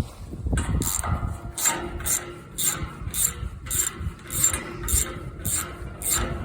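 Socket ratchet wrench clicking in repeated back-and-forth strokes, about two a second, set to loosen and backing out a bolt.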